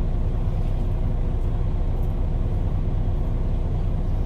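Steady low rumble of an idling semi-truck diesel engine, with no change in pitch or level.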